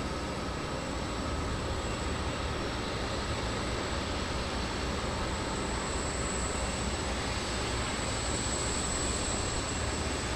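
Jet airliner engines running steadily: an even rumble and rush with a thin high whine that swells between about six and nine seconds in.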